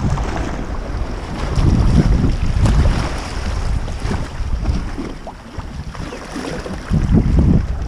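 Wind buffeting the microphone over sea water splashing and sloshing around a kayak, in irregular surges; it eases a little about five seconds in, then comes back strongly near the end.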